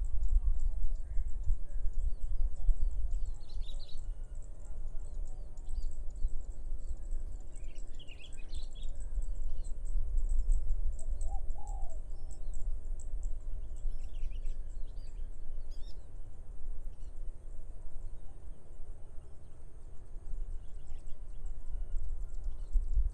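Rice-field morning ambience: birds chirping now and then, with a short two-note call near the middle, over a steady low rumble of wind on the microphone and a constant high-pitched buzz.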